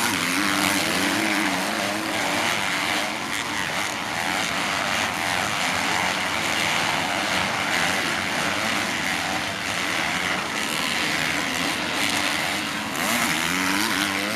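Motocross bike engines running hard at race speed, their pitch wavering up and down as the riders work the throttle. A rev rises sharply near the end.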